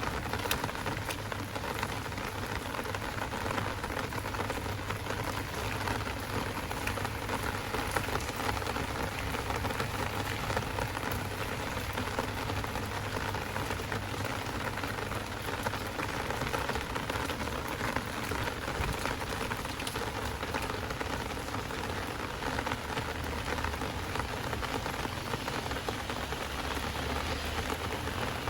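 Heavy rain falling steadily: a dense, even hiss of rain with many small drop hits.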